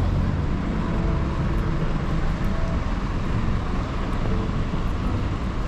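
City street traffic noise: passing cars and a steady low rumble, with no sudden event standing out.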